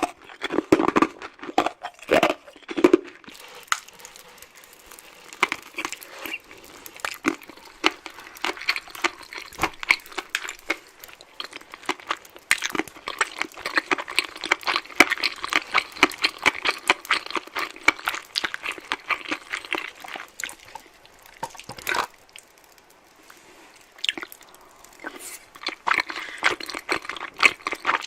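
Close-miked eating sounds: chewing, with many small crunches and mouth clicks that keep up steadily and pause briefly about three-quarters of the way through.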